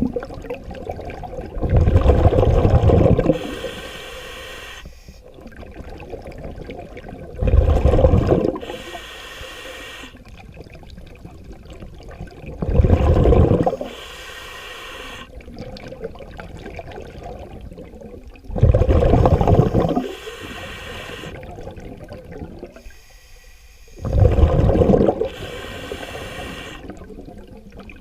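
Scuba diver breathing underwater through a regulator: five loud, rushing bursts of exhaust bubbles about every five and a half seconds, each followed by a softer hiss.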